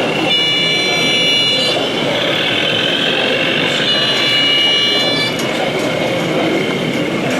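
Steady crowd chatter in an exhibition hall, with a high, steady whistle-like tone sounding twice, each time for about a second and a half.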